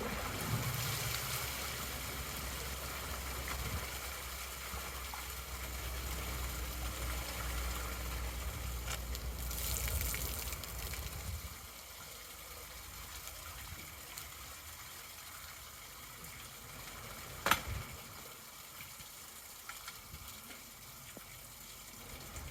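Rainwater gushing down a storm drain that has just been unclogged, with a low rumble, then dropping to a quieter flow about halfway through. A single sharp knock comes about three-quarters of the way in.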